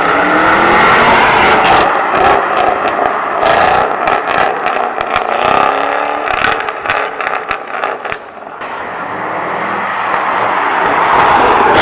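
A car engine revving hard as it pulls away, its pitch rising and falling repeatedly, with a rapid run of sharp cracks through the middle.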